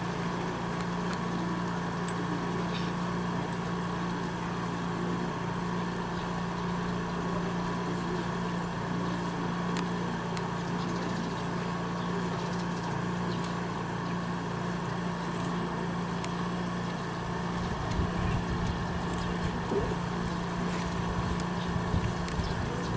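A steady low mechanical hum, like an idling engine, with some low rumbling and a few bumps in the last few seconds.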